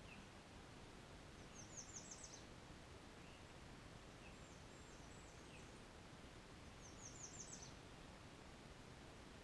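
A songbird singing faintly twice, each song a quick run of five or six high notes, about five seconds apart, with a few fainter high notes and chips in between.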